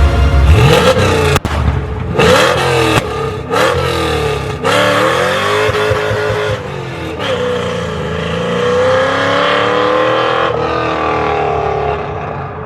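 Cammed 4.6 L V8 of a 1998 Mustang GT, with a stage 2 Comp cam, revving up and down several times and then climbing more slowly in pitch; the exhaust is really loud.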